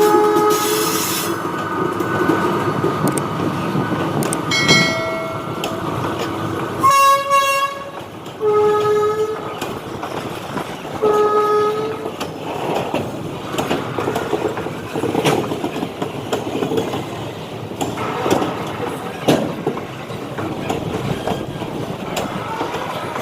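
Indian Railways freight train passing: the locomotive's horn gives several short blasts in the first half, over the rolling rumble of the wagons. Then the wagon wheels keep clattering over rail joints with scattered clicks and squeals.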